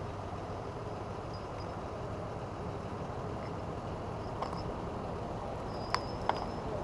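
Steady motor-vehicle noise, an even hum, with two light clicks about six seconds in.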